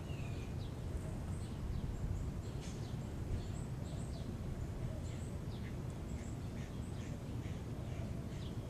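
Small birds chirping in many short, high calls scattered throughout, over a steady low background rumble.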